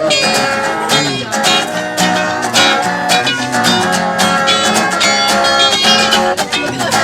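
Acoustic guitar strumming chords and picking notes in a steady rhythm: an instrumental passage of a live song, with no singing.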